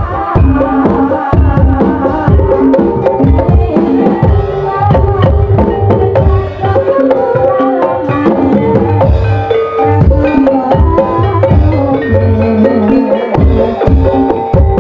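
Javanese ebeg accompaniment music played live: kendang hand drums beating a busy rhythm under ringing pitched percussion of the gamelan-style ensemble.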